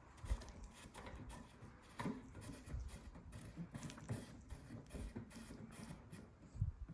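Faint clicks, light scraping and a few soft knocks of a short carbon fiber antenna mast being handled and screwed onto the truck's antenna base by hand.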